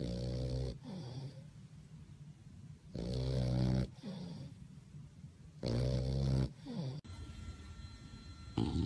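Bulldog snoring: three loud snores roughly every two and a half to three seconds, each followed by a softer breath out, and a fourth snore starting near the end.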